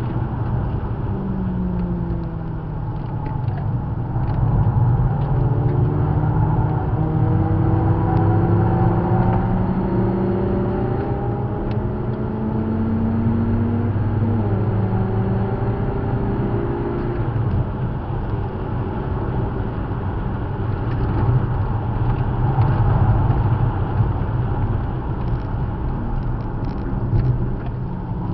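Car engine heard from inside the cabin while lapping a race track, the engine note climbing and dropping again and again as it revs up, shifts and eases off for corners, over steady road and tyre noise.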